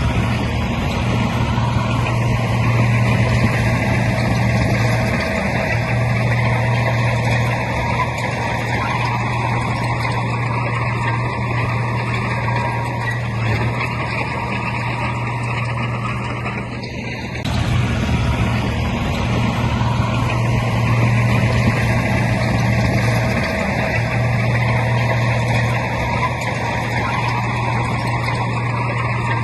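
Heavy diesel engine of earthmoving machinery, a bulldozer or dump truck, running steadily with a deep hum. About two-thirds of the way through, the sound dips briefly and changes abruptly.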